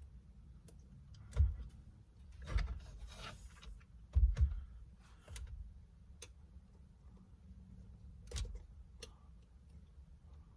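Scattered clicks, knocks and short scrapes of a screwdriver prying at the airbag retaining clips behind a Toyota Corolla steering wheel. The loudest knocks come about one and a half seconds in and just past four seconds.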